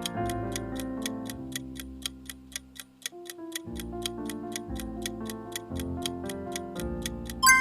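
Quiz countdown timer ticking steadily, about four ticks a second, over soft background music, ending near the end in a single bright, ringing chime that marks time up.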